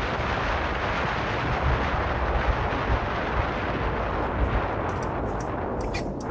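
Wind buffeting and road noise on a camera microphone mounted on the outside of a moving car, with heavy low thumping blasts under a steady rush. The noise eases a little near the end.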